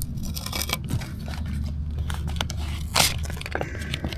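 Pond liner material being handled, crinkling and scraping in short irregular rustles, with one louder sharp crackle about three seconds in.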